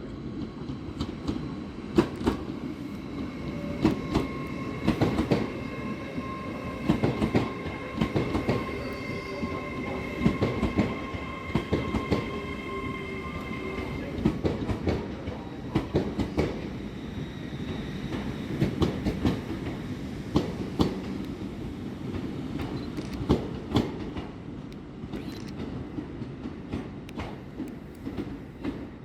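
A train rolling slowly through a station, its wheels clicking and knocking over rail joints and pointwork over a steady rumble. A steady high squeal runs through the first half.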